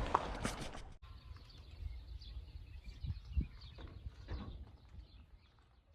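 Faint outdoor background: a low steady rumble with a few light knocks and faint chirps, cut off abruptly about a second in and then continuing more quietly.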